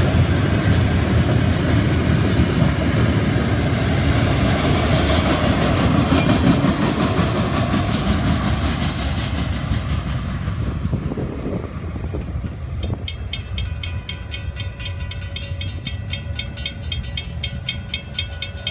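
Freight train cars rolling past with rumble and wheel clatter, fading away about ten seconds in as the end of the train clears. Then a grade-crossing bell rings with a steady, even rhythm.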